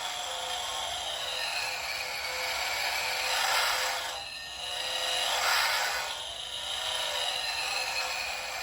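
The electronic engine-sound module of a DeAgostini 1:8 Dodge Charger R/T model playing a recorded engine revving through its small built-in speaker. It sounds thin and tinny with no bass, the pitch gliding up and down and swelling in two revs near the middle.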